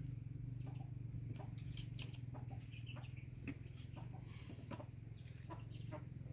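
Farmyard chickens clucking faintly over a steady low hum, with scattered light clicks and knocks.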